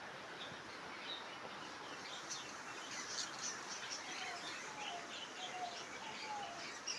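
Many small caged pet birds chirping and chattering at once, a dense run of short high chirps with a few lower whistled notes in the second half.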